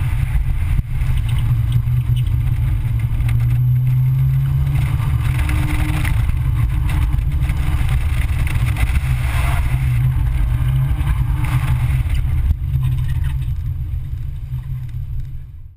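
Small car's engine pulling hard through an autocross run. The pitch rises and falls with the throttle between cones, with road and wind noise, and the sound fades out near the end.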